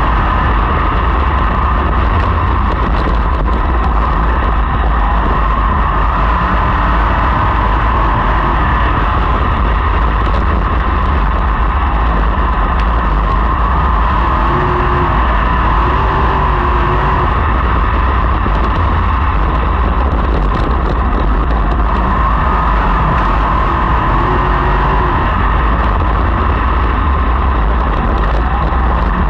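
A field of sprint cars racing on a dirt oval, their engines running together in a loud, steady drone.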